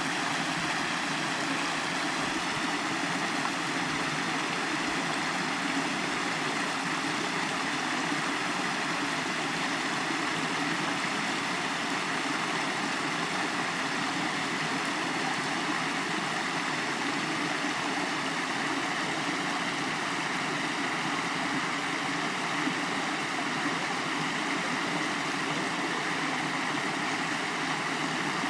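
Rushing water, a steady unbroken sound that keeps an even level throughout.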